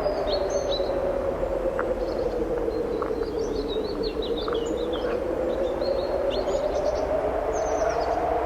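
Strong wind blowing through trees in a steady rush that slowly eases and swells, with small songbirds chirping and twittering over it.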